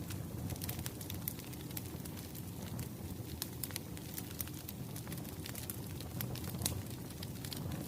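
Crackling wood fire: a steady low rumble with irregular sharp pops and snaps scattered through it.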